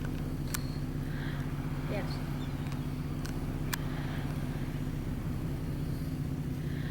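Car engine running steadily with a low hum, heard from inside the car, with a few faint sharp clicks.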